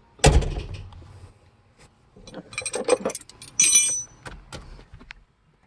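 A heavy thump about a quarter second in, followed by a set of keys jangling and clinking, with a bright metallic jingle near the four-second mark, as the truck key is worked at the ignition.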